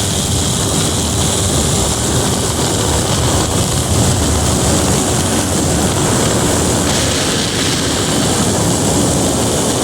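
Propeller aircraft running steadily in flight, its engine and propeller noise mixed with a constant hiss.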